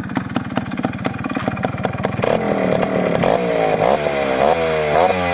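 Suzuki Samurai two-stroke single-cylinder motorcycle engine breathing through a Suzuki Shogun muffler: a fast, even exhaust beat at first, then revved from about two seconds in, the pitch climbing in repeated throttle blips.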